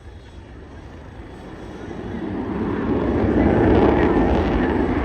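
Aircraft engine noise at an air show, growing steadily louder from about two seconds in and peaking near the end as the aircraft passes close.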